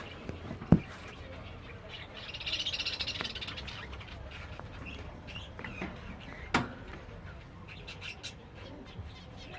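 Caged Gouldian finches chirping, with a buzzy, hissing song phrase about two seconds in. Two sharp knocks, one just under a second in and one past six seconds, the first the loudest.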